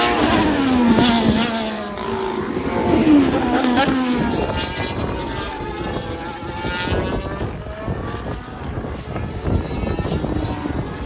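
Formula 1 cars' turbocharged V6 hybrid engines passing at race speed, several in quick succession. Each engine note drops in pitch as the car goes by.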